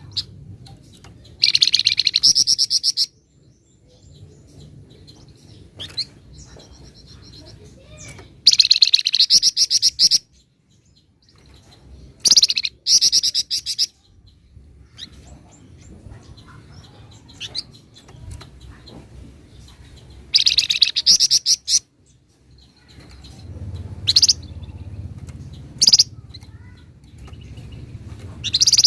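Flamboyan songbird singing in four bursts of fast, rattling high chatter, each about a second and a half long, then three short sharp calls near the end.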